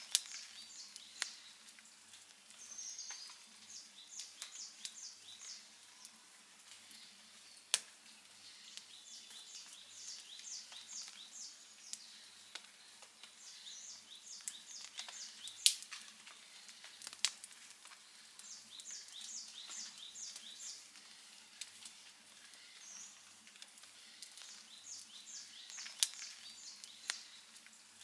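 Outdoor campfire crackling, with a handful of sharp pops, the loudest about halfway through and another near the end. A bird sings a short, rapid, high phrase over and over, every few seconds.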